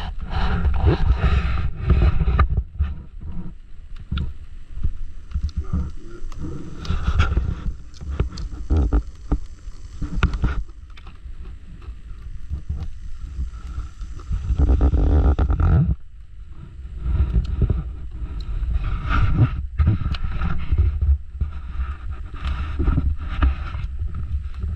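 Wind buffeting the microphone in gusts that swell and fade, with scattered sharp clicks and rustles.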